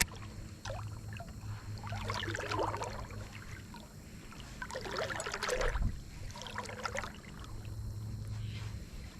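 Water splashing and lapping in four short surges over a low steady hum.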